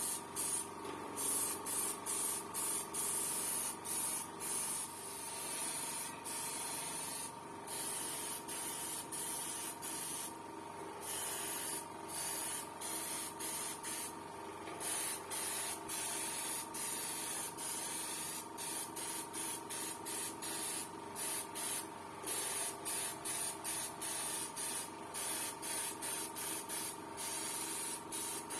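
Paint being sprayed in many short hissing bursts of varying length, with a faint steady tone underneath.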